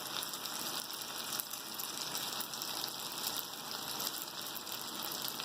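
Achappam (rose cookies) deep-frying in hot coconut oil: a steady sizzle with fine crackles, the achappam mould heating in the oil before the next dip.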